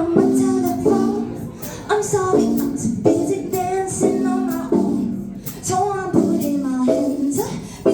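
Live band music with a female voice singing a melody in short, stepping notes over a light percussion beat.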